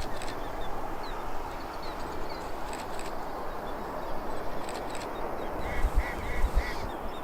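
Ducks quacking: a quick run of four quacks about six seconds in, over steady background noise.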